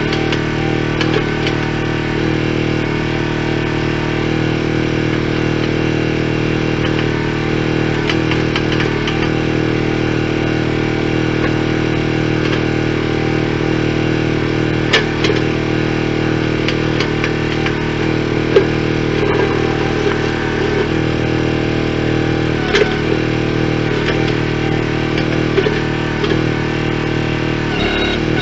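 An engine running steadily at a constant speed, with a few sharp clanks and knocks over it.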